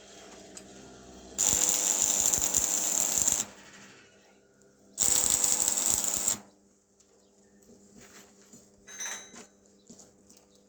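A power tool working metal, run in two bursts: about two seconds, then after a short pause about a second and a half, followed by a few faint clicks and knocks.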